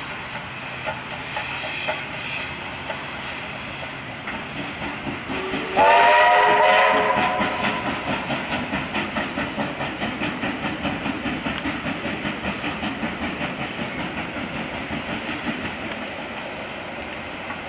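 Steam locomotive sounding its whistle once, about two seconds long, starting slightly flat and rising to pitch, with its exhaust chuffing in a steady rhythm of about four beats a second as it passes and slowly fades.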